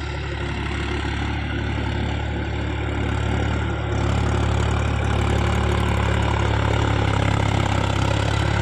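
Mahindra tractor's diesel engine running steadily, growing louder about four seconds in.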